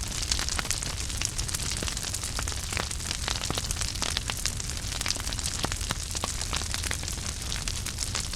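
Wood fire in a fireplace crackling steadily, with frequent small sharp pops over a soft hiss and a low rumble.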